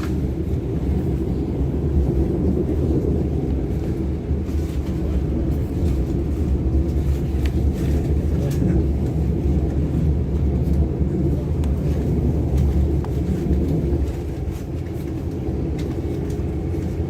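Interior of a DB Class 425 electric multiple unit in motion: a steady low rumble from the running gear and rails, with a few faint scattered ticks and a slight drop in level near the end.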